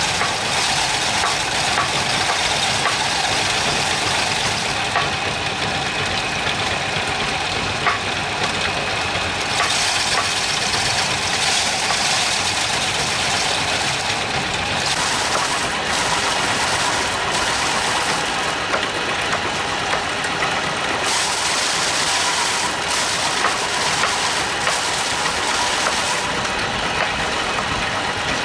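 An engine running steadily and unbroken, with a faint constant high whine over dense mechanical noise.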